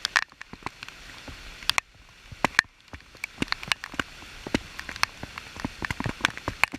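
Rain falling steadily, with irregular sharp drop hits close by over an even patter.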